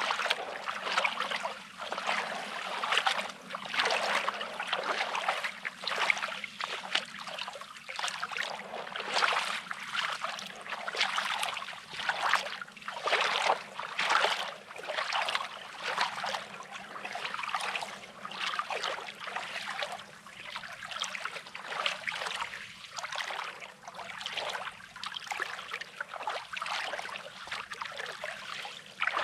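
Small waves lapping and trickling over a pebbly shoreline, swelling and falling about once a second with crackling washes.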